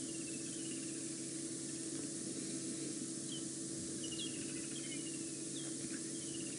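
A small bird calling over and over: each call is a sharp high note followed by a quick run of notes stepping down in pitch, repeated every second or two over a steady hiss and faint low hum.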